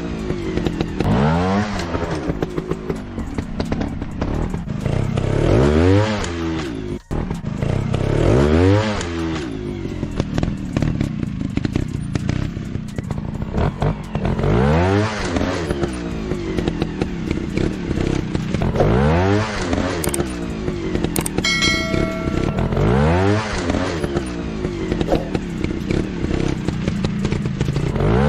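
Trail-bike engines revving hard and dropping back again and again, one rev every two to four seconds. A short tone sounds about three-quarters of the way through.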